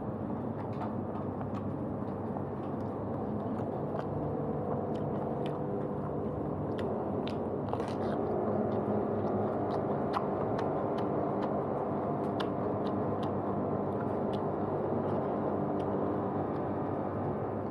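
Someone chewing and biting into grilled barbecue food, with small scattered clicks, over a steady background hum.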